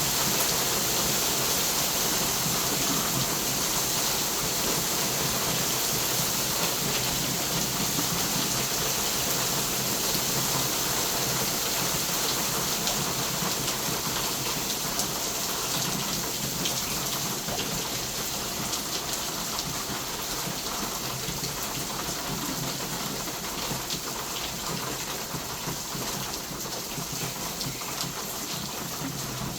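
Hurricane rain falling heavily and steadily, a dense patter of drops that grows a little quieter toward the end.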